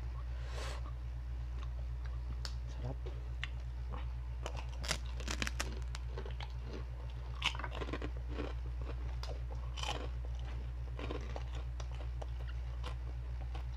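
Crisp chicharon (fried pork rinds) being bitten and chewed: scattered crunches and crackles, busiest around five seconds in and again near eight and ten seconds. A steady low hum lies underneath.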